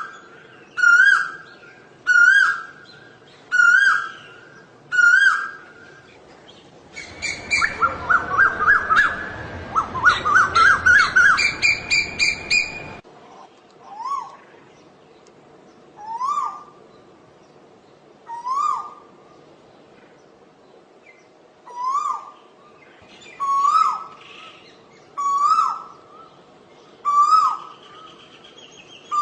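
Asian koel calling: a repeated, rising "ko-el" note, about one a second at first. About seven seconds in, a fast run of short, shrill, rising notes lasts some six seconds, over a rushing noise. Then the rising calls resume more slowly, spaced about a second and a half to two seconds apart, each pitched a little higher than the last.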